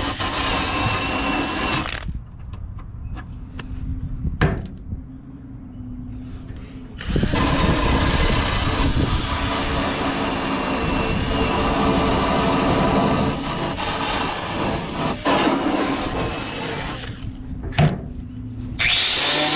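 Handheld power tool working rust off car body metal. It runs in long stretches, stops twice for a few seconds, and a few sharp knocks are heard in the pauses.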